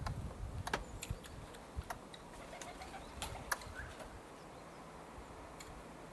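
Eurasian red squirrels giving their sharp clicking alarm calls: faint, irregular single clicks a second or so apart, with a few faint chirps among them.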